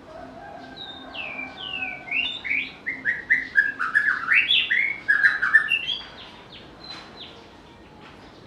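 White-rumped shama singing: a few falling whistled notes that quicken into a rapid run of rising and falling notes, loudest around the middle, then a few faint notes near the end.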